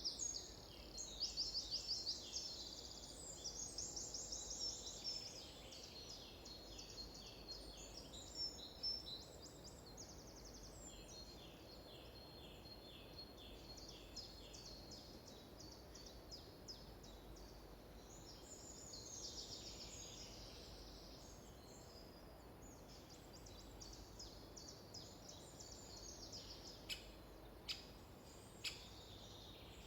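Several songbirds singing at once, overlapping phrases of rapid repeated chirps and trills over a faint steady background hiss. A few sharp clicks come near the end.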